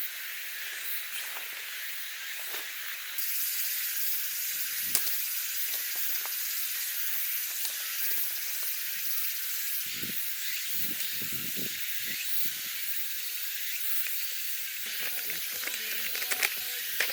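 Steady sizzling hiss of cooking on a camp stove, stepping up in level about three seconds in, with a few light clicks and taps.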